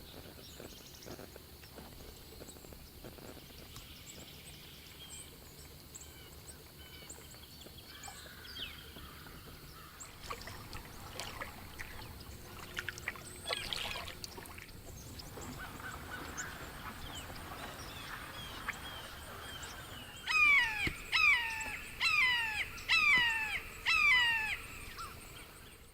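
A bird calling a series of about six loud calls, each sliding down in pitch, near the end, over faint scattered chirps of smaller birds.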